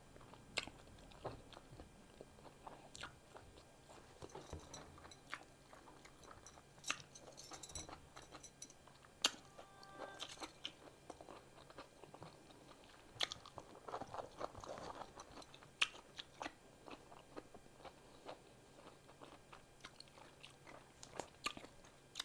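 Close-up chewing and mouth smacks of someone eating a cheddar hot link sausage in a soft bun, with scattered short wet clicks and a few louder smacks.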